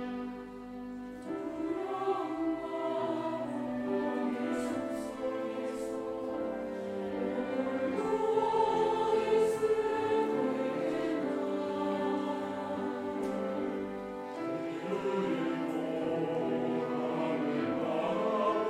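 Church choir singing an anthem in harmony over instrumental accompaniment, the voices coming in about a second in.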